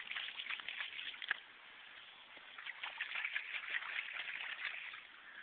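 Light, irregular splashing in shallow running rainwater, in two spells with a lull of about a second in the middle.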